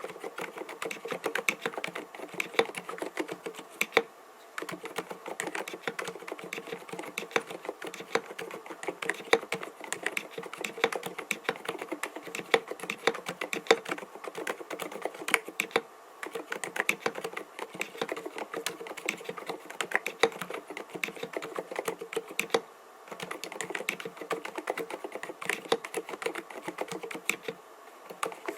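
Continuous fast typing on an mStone Groove T 87A mechanical keyboard fitted with 45 g silent milky switches: dense, muted keystrokes, with short pauses about four, sixteen and twenty-three seconds in.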